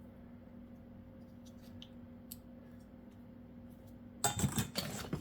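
Heater parts and their packaging being handled: a few faint clicks, then near the end a loud burst of rustling and clinking as parts are pulled from the box.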